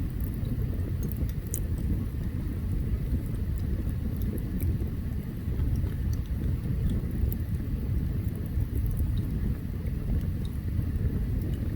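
Open campfire burning: a steady low rumble with small, sharp crackles and pops scattered through it.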